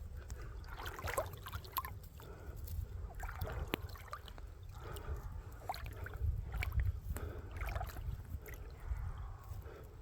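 Shallow creek water sloshing and trickling over rocks, with scattered small splashes and clicks, over a steady low rumble.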